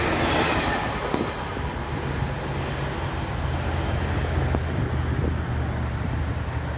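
Diesel railcar passing and pulling away: a loud rush of wheels and air fades over the first second, then its engine keeps up a steady low hum as it moves off.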